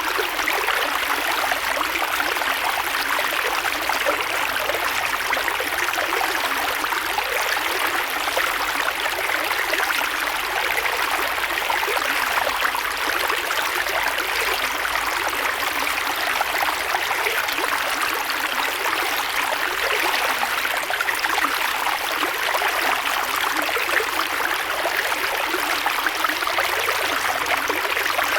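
A creek flowing steadily over stones, a continuous rushing and babbling of water.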